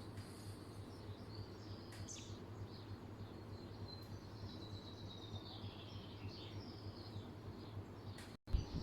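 Birds chirping and twittering in the background, one call gliding down in pitch midway, over a steady low hum. The sound breaks off briefly near the end.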